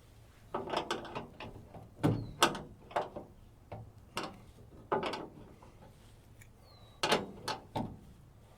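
Irregular clusters of sharp metallic clicks and clunks from a 1963 Chevrolet C10's door latch and its mounting being worked by hand while the replacement latch is adjusted.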